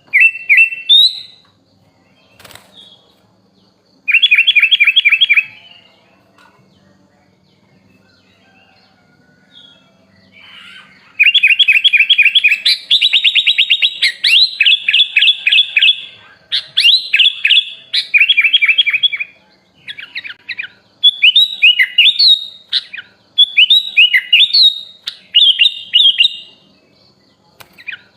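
Sooty-headed bulbul (kutilang) singing. A short rapid trill comes about four seconds in, then after a pause a long run of fast trilled phrases, followed by repeated short sweeping whistled phrases.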